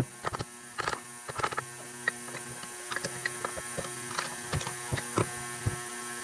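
Steady electrical hum with scattered sharp metallic clicks and clinks of tools and parts being handled during the teardown of a transfer case.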